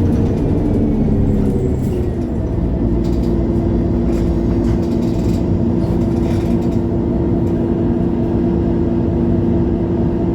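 Interior sound of a MAN A23 Lion's City G articulated city bus: the drivetrain hum glides down in pitch over the first two seconds, then settles into a steady hum, with a few faint rattles.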